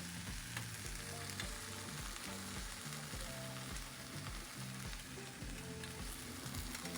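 Food sizzling steadily as it fries in butter in a pan, over quiet background music with a regular beat.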